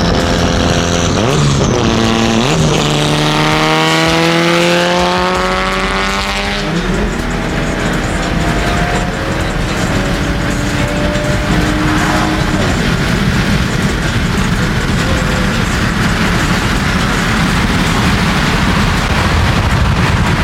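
Turbocharged KA24DET inline-four in a Nissan 240SX accelerating hard. The revs climb through one gear, drop at a shift about six and a half seconds in, then climb again, and after that the engine settles into a steady rush of engine and road noise.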